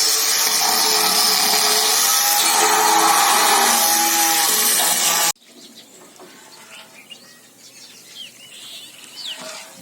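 Loud steady hissing from a workshop tool or air jet, which cuts off abruptly about five seconds in. Faint bird chirps follow.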